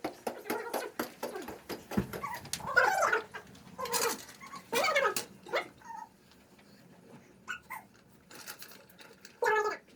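A domestic animal giving a series of short, high calls, several in the first half and fewer later.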